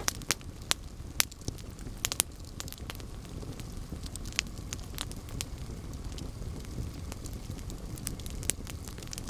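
Campfire burning: wood crackling and popping at irregular intervals over a low steady rumble of the flames, with the sharpest pops in the first few seconds.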